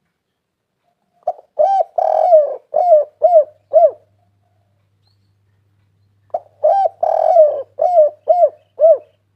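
Spotted dove (tekukur) cooing twice in the same pattern. Each phrase has a short opening note, a longer drawn coo, then three evenly spaced shorter coos.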